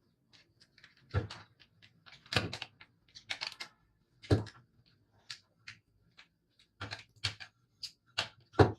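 A string of sharp clicks and knocks at uneven intervals, from parts and tools being handled during hands-on work. The loudest knocks come about a second in, two and a half seconds in, four and a half seconds in and near the end.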